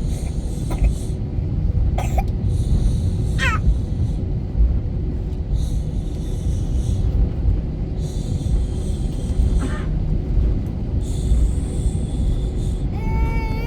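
Steady low rumble of an Airbus A320-family airliner's cabin in flight, engine and airflow noise. A few brief high-pitched squeals rise over it about one, two and three and a half seconds in, and again near ten seconds.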